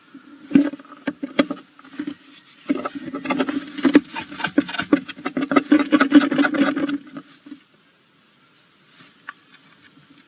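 Tawny owl moving about inside a wooden nestbox: claws scratching and scraping on the box floor, a few scrapes at first, then a dense run of scrabbling for about four seconds before it stops.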